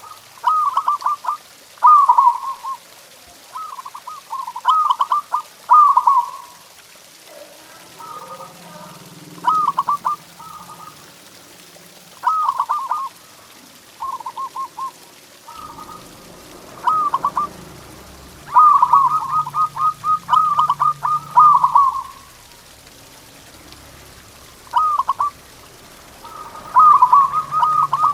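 Zebra dove (perkutut) cooing its song: phrases of rapid stuttering coo notes, repeated with short pauses between them.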